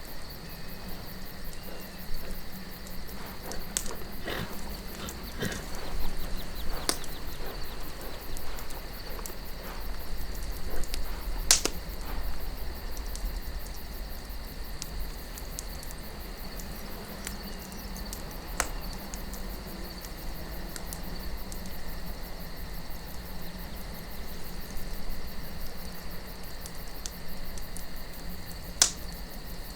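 Campfire burning with scattered sharp pops and crackles, the loudest about eleven and a half seconds in and another near the end. Behind them is a steady chirring of crickets and a low rumble of wind.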